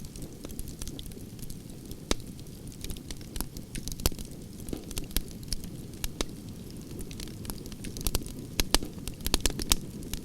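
Campfire logs burning and crackling: sharp pops and snaps over a low steady rumble, the pops coming thicker about eight seconds in.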